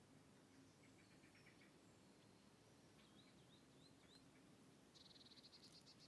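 Near silence with faint outdoor ambience and soft, high chirps of small birds: a few light chirps early, a run of four or five short rising notes around the middle, and a short rapid trill near the end.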